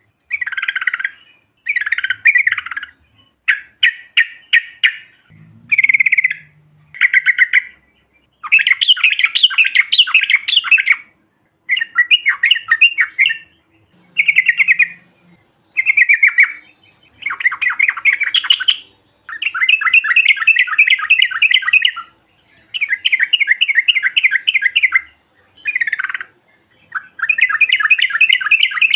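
Yellow-vented bulbul (trucukan) calling in loud chattering bursts of rapid, bubbling notes, each burst lasting one to three seconds with short pauses between.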